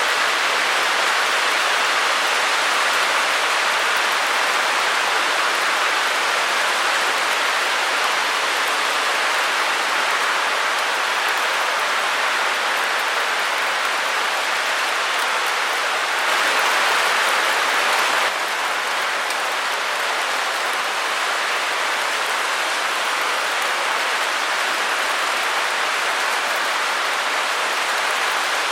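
Steady white-noise hiss, even and unbroken, heavier in the middle and upper range than in the bass. It is a little louder for a couple of seconds about two-thirds of the way through, then drops back abruptly.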